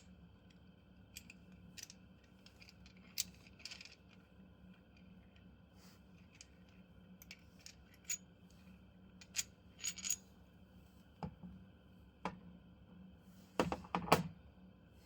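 Scattered light metallic clicks and clinks of small metal parts being handled, with a quick run of louder clinks near the end.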